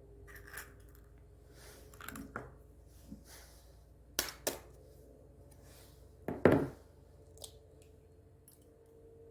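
Kitchen utensils and dishes being handled: a scattering of light clinks and knocks, a pair of sharp ones a little past the middle and the loudest about two-thirds of the way in.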